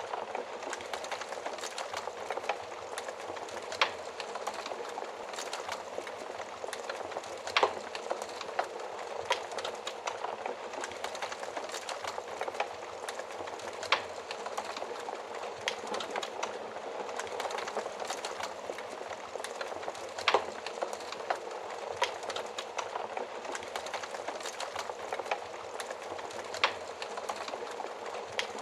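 Wood fire burning in an oven: a steady hiss of flames with continual small crackles and an occasional louder pop every few seconds.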